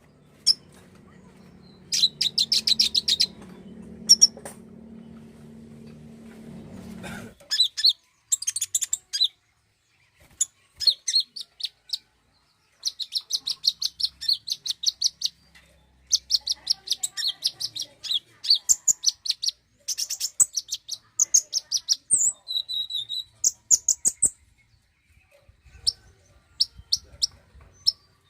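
Konin (kolibri ninja) sunbird song: rapid, high-pitched chirping trills in bursts of about a second, repeated over and over with short gaps. A low hum runs underneath for the first several seconds and then cuts off suddenly.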